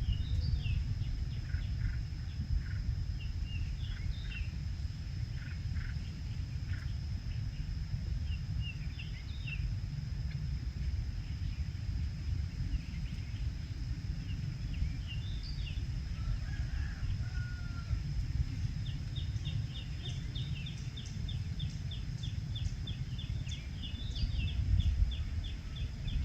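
Outdoor ambience: a steady low rumble like wind on the microphone, a thin steady high whine, and birds giving scattered short chirps, with a rapid run of chirps at about four a second over the last several seconds.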